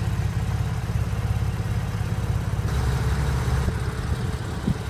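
Porsche 911 Carrera 4S's 3.8-litre flat-six idling with a steady low rumble. About three seconds in there is a brief rise in hiss lasting around a second.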